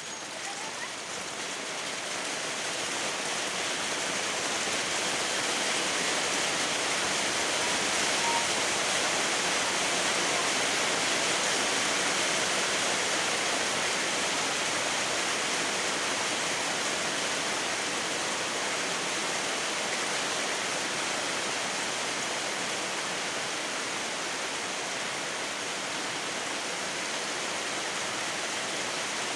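Heavy rain falling steadily, a dense even hiss that swells over the first few seconds and then holds.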